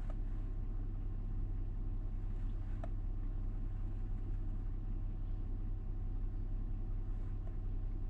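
Car engine idling while the car stands still, a steady low rumble heard from inside the cabin, with a faint tick about three seconds in.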